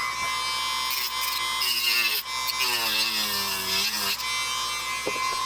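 Dremel rotary tool running at high speed with a steady high whine, grinding on metal.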